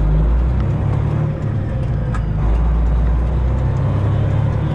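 Straight-piped Detroit diesel engine of a Freightliner Classic XL semi truck running at low speed, heard from inside the cab as a steady low drone that swells and eases slightly.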